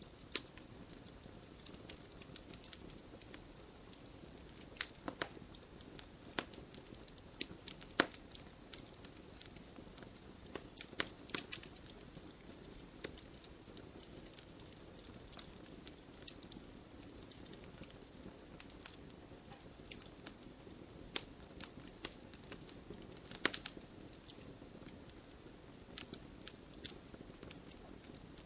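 Wood fire burning in a fireplace: a steady low rush of flames under irregular sharp pops and crackles, with clusters of louder snaps about 8, 11 and 23 seconds in.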